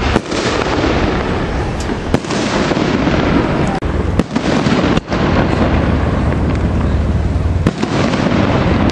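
Fireworks display: aerial shells bursting one after another, loud booms every second or two over a continuous din.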